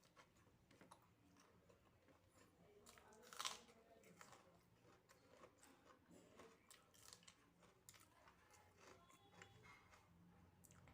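Faint close-up chewing of soft food such as rice, dal and mashed potato, with small wet mouth clicks throughout and one louder click about three and a half seconds in.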